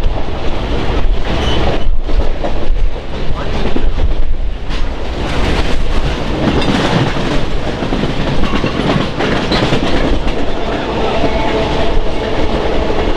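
Train running on rail, its wheels clicking over the rail joints with a heavy rumble. A faint steady tone comes in over the last few seconds.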